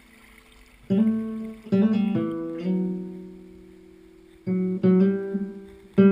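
Background music: acoustic guitar strumming chords that ring out and fade between strums.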